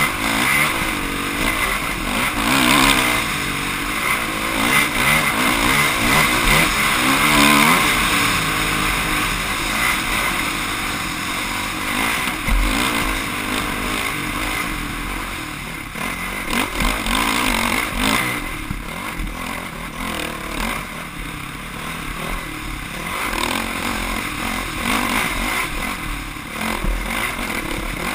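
Off-road motorcycle engine revving up and down as it is ridden along a trail, over a steady rushing noise.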